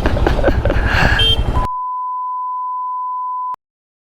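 Motorcycle engine running with wind noise, cut off after about a second and a half by a steady electronic censor bleep, a single pure tone held for about two seconds, which stops abruptly into dead silence.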